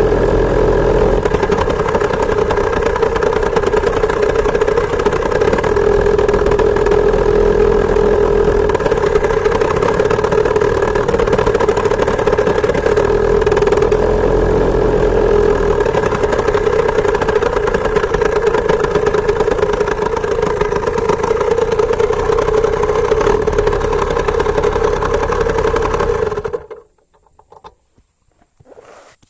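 Two-stroke chainsaw engine of a homemade moped running steadily at an even pitch, then cutting off suddenly near the end as it is switched off.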